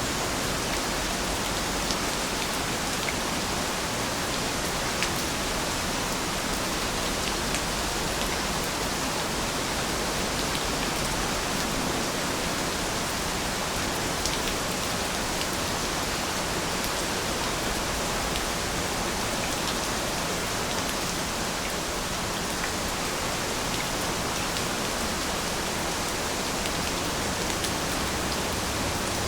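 Steady rain falling in a continuous hiss, with scattered faint individual drop ticks.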